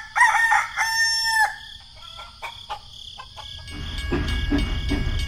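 A rooster crows once, the last part of the call held for about a second, and then clucks briefly. Background music comes in about four seconds in.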